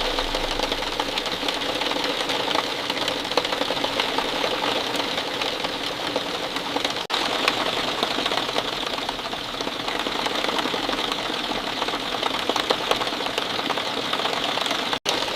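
Rain falling steadily: a dense, even patter of many drops. There are two split-second breaks, about seven seconds in and just before the end.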